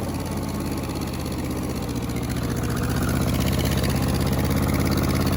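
Ford 8N tractor's four-cylinder gasoline engine running steadily, getting a little louder about halfway through.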